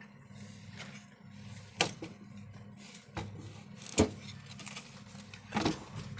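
A few sharp knocks and clacks of merchandise being handled on store shelves, over a steady low hum. The loudest knock comes about four seconds in.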